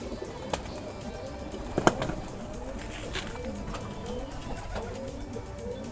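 Domestic pigeons cooing over and over, several calls overlapping. A few sharp clicks cut in, the loudest about two seconds in.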